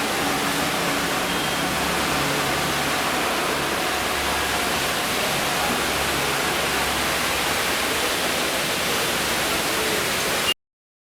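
Heavy rain pouring down, a steady dense hiss of water that cuts off suddenly near the end.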